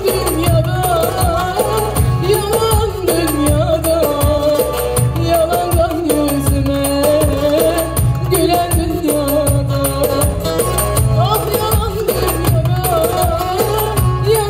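Live Turkish folk music: an ornamented, wavering melody line over a steady beat and bass.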